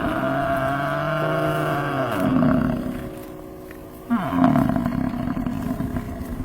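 An animal calling twice, each a long, loud, rough call of two to three seconds, the second starting about four seconds in.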